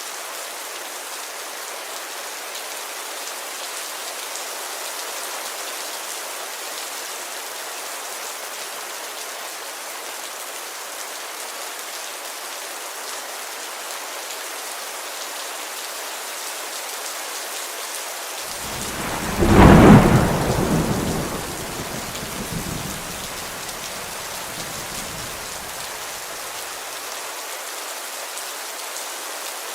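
Steady rain falling on a window. About two-thirds of the way through, a sudden loud thunderclap breaks out above the rain and rumbles away over several seconds.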